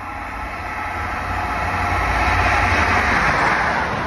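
Class 43 HST diesel test train approaching at speed and passing close by without stopping; the engine and rail noise grows steadily louder, peaking about three seconds in as the coaches rush past.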